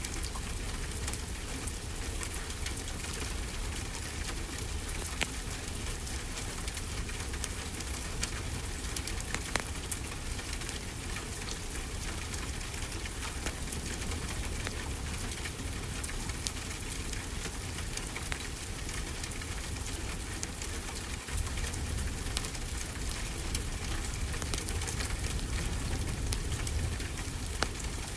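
Steady rainfall hiss with scattered sharp crackles and pops from a wood fire, over a low steady rumble.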